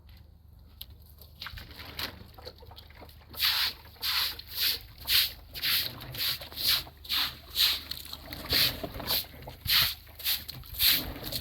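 Water sloshing in rhythmic strokes, about two a second, starting a few seconds in after a quiet stretch.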